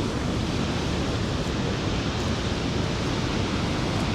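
Rhine Falls waterfall: a steady, even rush of heavily falling water with no break.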